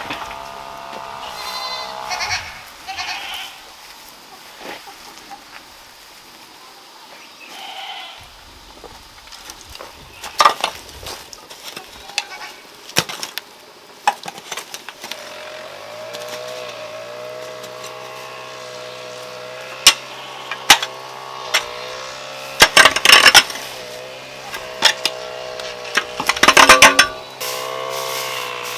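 Goats bleating with several short calls, mixed with a series of sharp knocks and scraping clicks, busiest in the second half.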